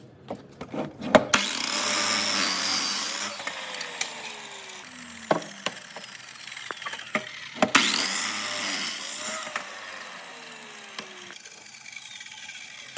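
A power tool cutting or machining wood in two passes, each with a falling whine as the motor winds down afterwards, and a few knocks of wood being handled in between.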